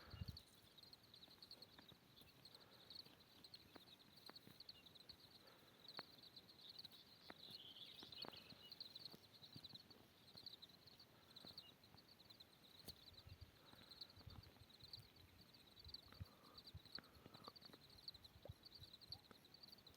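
Near silence: a faint, steady, high rhythmic chirping from animals, with a few scattered faint knocks.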